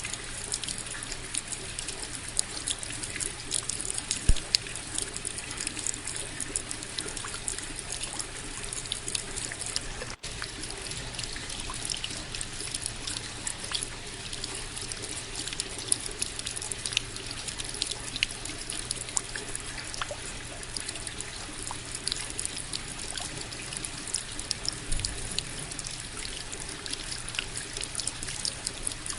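Steady rain, with many separate drops ticking sharply over an even hiss. There is a split-second dropout about ten seconds in.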